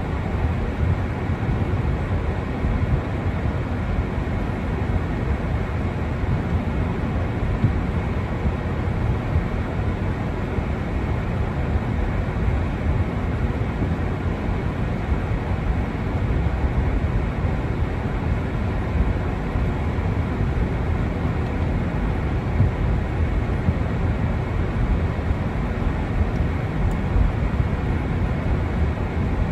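Wind blowing across the microphone in a snowstorm: a steady noise, heaviest and buffeting in the low end, with no distinct events.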